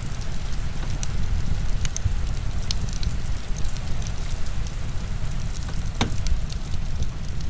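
Heavy rain mixed with a crackling wood fire: a steady, dense rumble and hiss of rain, with scattered sharp crackles and pops from the fire at irregular moments.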